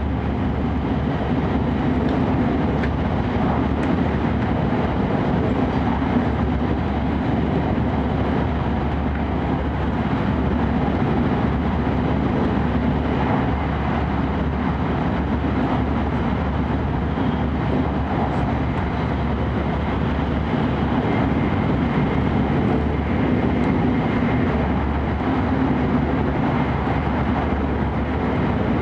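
Steady running noise heard inside the cabin of an E5 series Shinkansen train: an even rumble and rush from wheels, rails and air that holds at one level throughout.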